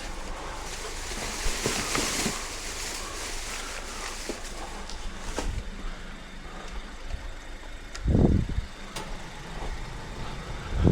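Car engine idling, with a few scattered clicks and one heavy thump about eight seconds in.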